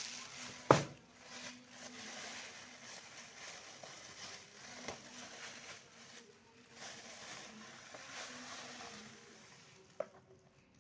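Plastic toy packaging of a Beyblade being handled and opened, rustling and crinkling, with a few sharp clicks; the loudest comes just under a second in. A faint steady hum sits underneath.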